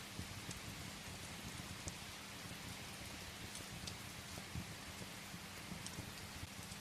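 Steady rain falling on a surface, with a wood fire crackling now and then in a few faint sharp ticks.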